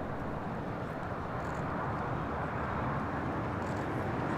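Steady outdoor background noise, an even rush and hiss with no distinct events.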